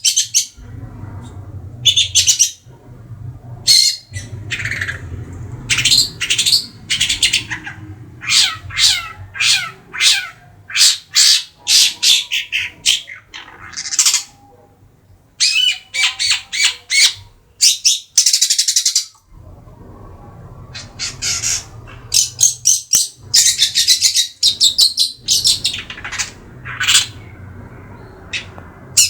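Young long-tailed shrike calling almost continuously: rapid series of sharp, harsh high notes and chatter, some sliding downward, broken by short pauses.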